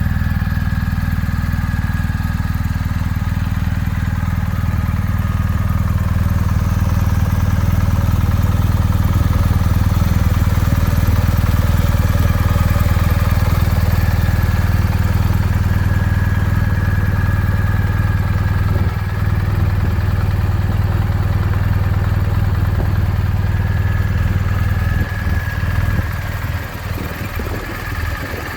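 Motorcycle engine idling steadily, with the note turning slightly uneven near the end.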